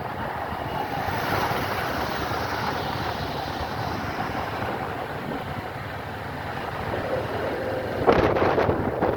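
Motorcycle running on the move, with wind rushing over the microphone. Louder wind buffeting starts about eight seconds in.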